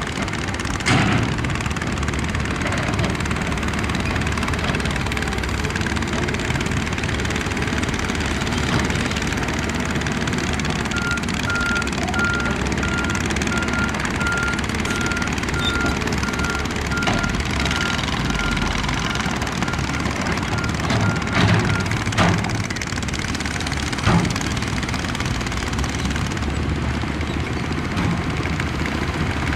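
Heavy earthmoving machinery (bulldozer and wheel loader diesel engines) running steadily under load. A backup alarm beeps at an even pace for about ten seconds in the middle, and a few sharp knocks come through, typical of rock and gravel being pushed.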